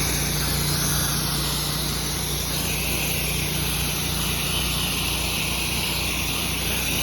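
Pressure washer's gas engine running steadily under a constant hiss of water spraying from the wand, as chemical pre-treatment begins.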